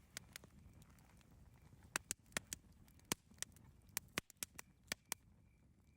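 Wood campfire crackling: about a dozen sharp, irregular pops and snaps over a low, steady rustle of burning.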